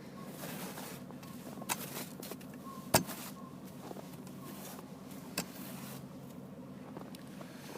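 Buick's engine idling steadily just after a cold start. A few sharp clicks sound over it, the loudest about three seconds in.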